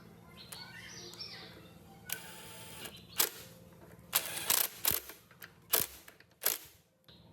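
A series of sharp mechanical clicks and knocks, several in quick succession, with a short hiss just before them.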